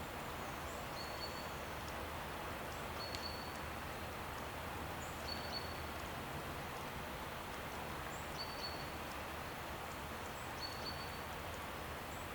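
A small bird repeating a short, high, even-pitched chirp about every two seconds over a steady outdoor rushing hiss.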